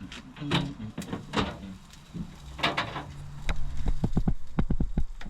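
A few sharp knocks and clatters, then a quick run of dull thumps, roughly six a second, near the end.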